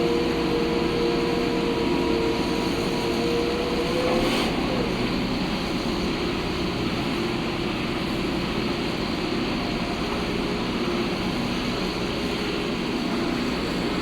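Heavy construction machinery running steadily: an engine drone with a held whine over it that drops away a little after four seconds in.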